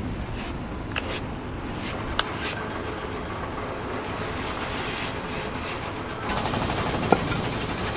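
Steady machinery noise with a few sharp knocks; about six seconds in, a fast, even mechanical rattle like a powered hammering tool starts and grows louder.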